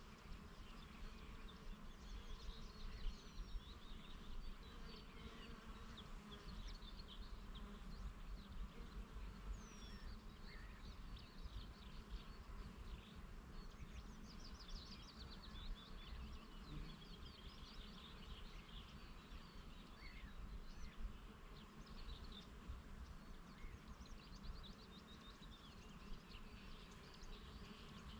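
Bees buzzing over a flower field while several birds sing in short chirps and trills throughout, with a low wind rumble on the microphone.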